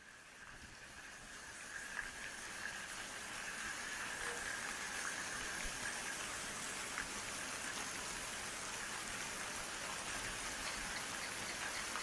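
Steady rain falling, fading in over the first few seconds and then holding even, with occasional sharper drops.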